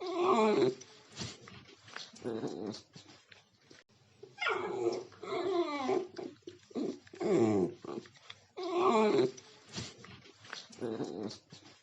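A dog making a series of drawn-out, pitch-bending vocal calls, whining and growl-like, with three loud calls and quieter ones between.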